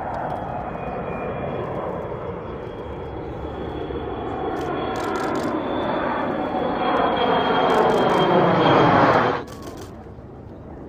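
An airplane flying past, its engine noise growing steadily louder with a thin high whine over it, then cutting off abruptly about nine seconds in.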